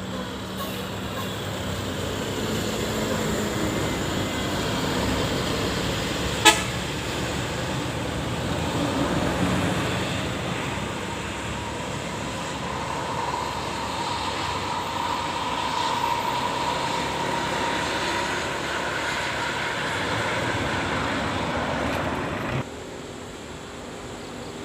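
Road traffic of buses and trucks, with a long horn note held for several seconds midway and a sharp click about six seconds in. The sound drops abruptly near the end.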